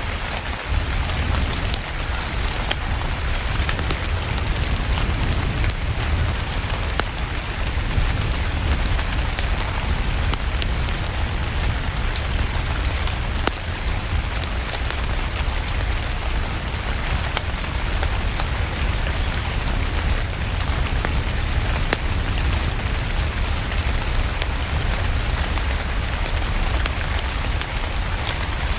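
Steady rain falling, with a low rumble and scattered sharp crackles and pops of a wood fire burning in a fireplace.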